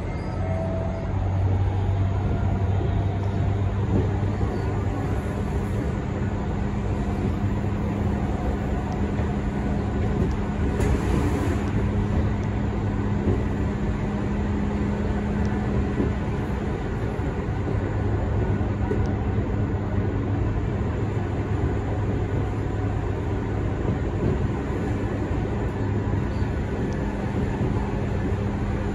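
Tokyu 5050 series electric train running at speed, heard from inside the passenger car: a steady rumble of wheels on rail with a low hum. A brief louder rush comes about eleven seconds in.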